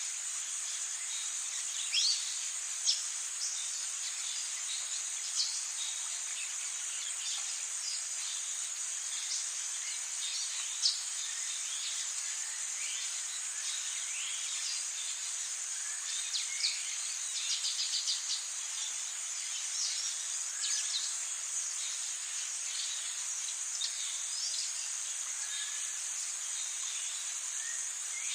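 Rainforest ambience: a steady high-pitched insect chorus of crickets, with many short bird chirps and calls scattered through it, including a quick trill a little past halfway.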